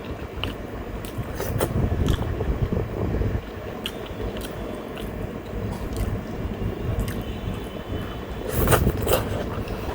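Close-miked eating: biting into and chewing buff momo, with scattered wet clicks and scrapes and a louder crunchy burst near the end, over a steady low hum from a fan.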